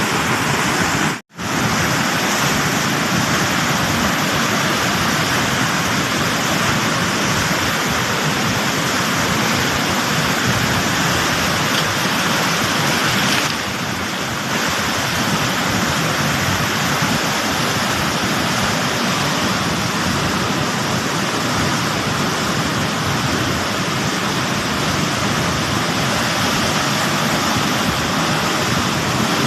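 Flash floodwater pouring over a weir in a steady, loud rush of water, broken by a brief dropout about a second in.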